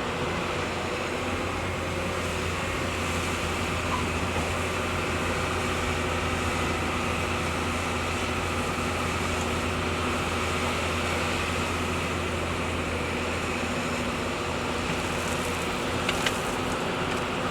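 Heavy construction machinery's diesel engine running steadily at a constant pitch, with one short knock near the end.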